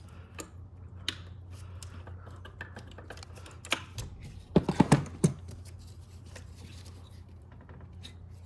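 Hand tools and fingers working a coolant hose off a throttle body: scattered small clicks, then a quick run of four or five sharp clicks and snaps about halfway through, over a steady low hum.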